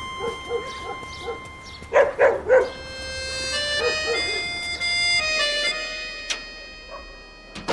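A dog barking over background music: a run of quiet yaps, then three loud barks about two seconds in, and a few more yaps shortly after.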